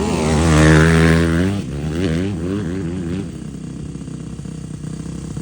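Dirt bike engine revving, its pitch rising and falling with the throttle. It is loudest about a second in, then drops to a lower, steadier note after about three seconds.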